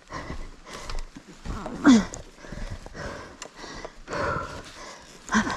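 A person breathing hard and panting with heavy exertion, close to the microphone. About two seconds in there is a short, loud strained vocal sound that falls in pitch.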